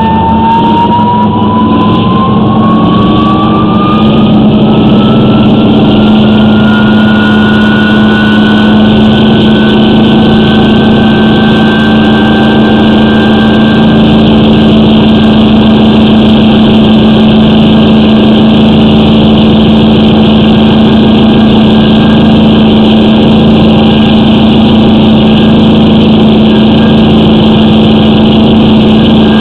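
Hydro-jetter engine and high-pressure pump running steadily while jetting water into a sewer line. A whine climbs in pitch over the first dozen seconds, then holds steady under the engine's constant hum.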